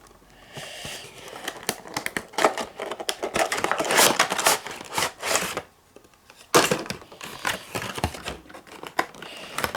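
Packaging of a boxed model train car being opened and handled: irregular crinkling and rustling with sharp clicks, pausing briefly about six seconds in.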